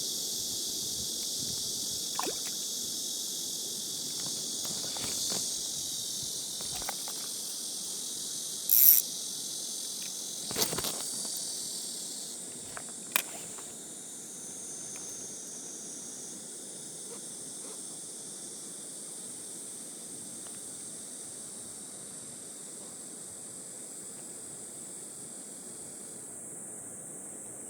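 Steady high-pitched chorus of insects buzzing at dusk, broken by a few short sharp clicks, the loudest about nine seconds in. Near the end part of the chorus stops and it thins out.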